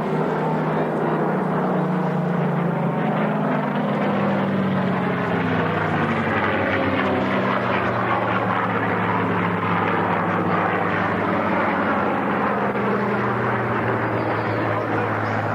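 Propeller aircraft engine droning steadily as the aircraft flies past, its pitch shifting about four seconds in.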